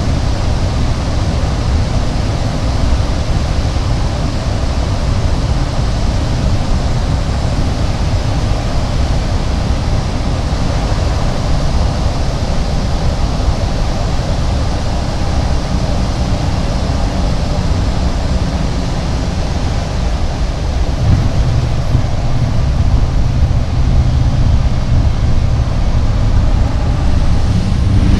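Steady drone of a Cessna 208 Caravan's turboprop engine and propeller, heard from inside the aircraft, with a wash of airflow noise. The low drone grows a little stronger and louder about three quarters of the way through.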